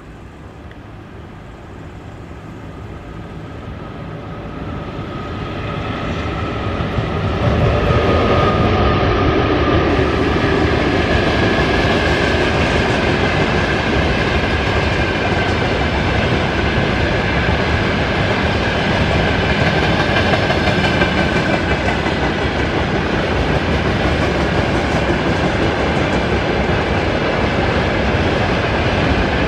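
Freight train behind a VL10U electric locomotive approaching, growing steadily louder until it passes about eight seconds in, then a long string of tank wagons rolling by with a steady rumble and clatter of wheels on the rails and a faint steady whine.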